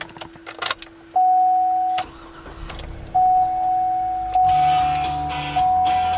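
A dashboard warning chime sounds, then the 2008 Hummer H2's V8 cranks and starts about two seconds in and settles to a low idle, heard from inside the cab. A single-tone chime repeats about every second over the idle.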